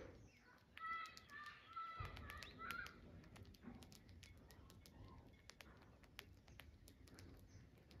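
A bird calls faintly in a short run of pitched notes lasting about two seconds, near the start. Faint, scattered clicks run throughout.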